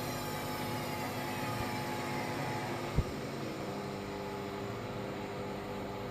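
Hoover Vision washing machine running its diagnostic test cycle: a steady machine whine over a hum, at first slowly falling in pitch, with one sharp click about three seconds in.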